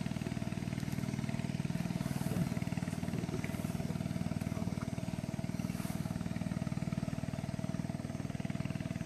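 Boat engine running steadily, with a rapid, even pulsing.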